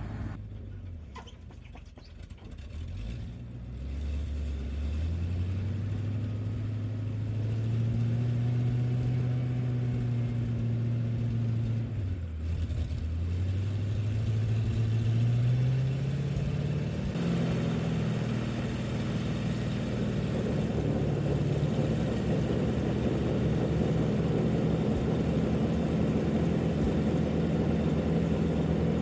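Old International boom truck's engine revving up and held at high revs, dipping once about twelve seconds in and climbing again. From about halfway a rough hiss joins it as a single rear tire spins on a steel plate in a one-wheel burnout, and the revs fall near the end.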